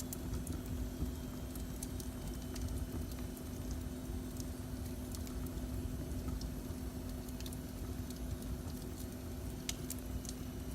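Fire burning in a fireplace, crackling with scattered sharp pops over a steady low rumble and a faint steady hum.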